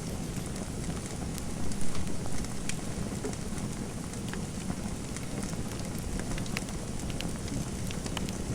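Fireplace fire crackling: scattered sharp pops and snaps over a steady low rumbling hiss, with a slightly louder stretch about two seconds in.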